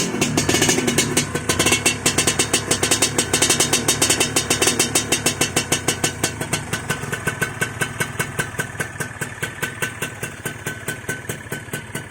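Kawasaki Ninja SS 150 two-stroke single with a split racing exhaust, idling with a quick, even pulsing beat that slowly settles and quietens after being started or blipped just before.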